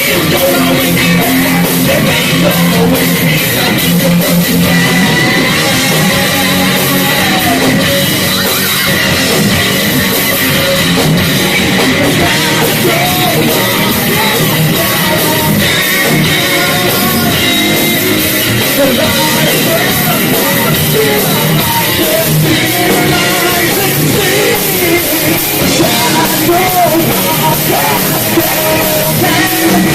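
Heavy metal band playing live and loud: distorted electric guitars, bass and drums, with a singer's voice over them.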